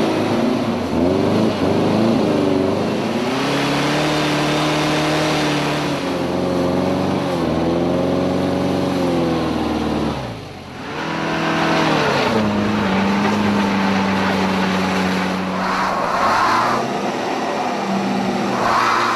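Stuck cars revved hard with their driven wheels spinning in place: first a Volkswagen Beetle's engine, its revs rising and falling in waves as the rear wheel churns in mud. About halfway through it breaks off and a second car's engine holds high, steady revs as its wheels spin on snow.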